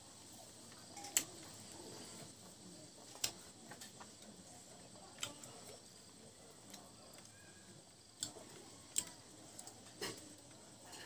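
Close-up eating sounds of a person chewing mutton curry and rice eaten by hand: a few sharp, irregular mouth clicks and smacks, about six, with soft wet chewing between.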